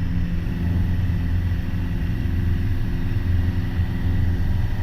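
Piper PA-28 Warrior's four-cylinder Lycoming engine and propeller droning steadily at climb power, heard inside the cockpit.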